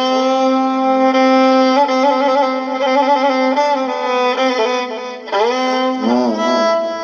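Instrumental interlude of an Iraqi mawwal: a violin-toned melody with wavering ornamental turns over a steady held drone note, with a few sliding pitch glides near the end.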